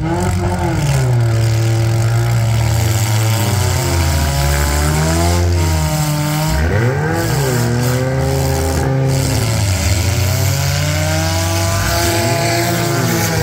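Several compact demolition derby cars' engines running and revving together, their pitch rising and falling over and over.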